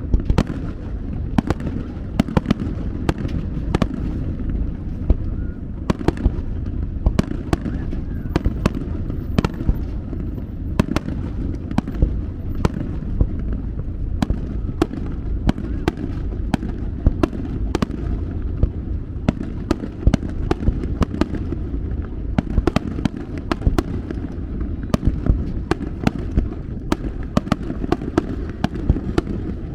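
Aerial fireworks shells bursting in quick succession: many sharp bangs, several a second, over a continuous low din of overlapping explosions.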